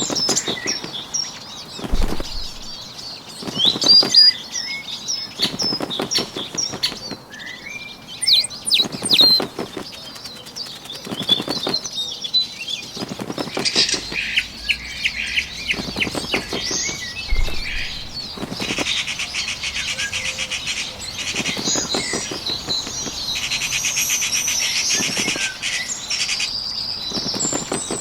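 Bird wings flapping in short bursts every couple of seconds, mixed with bird chirps. In the second half a fast trill of rapidly repeated notes carries on for several seconds.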